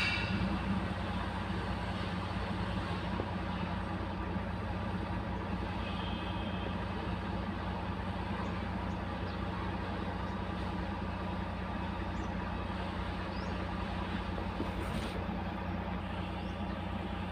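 An engine runs steadily at an even idle-like hum, with a few faint ticks over it.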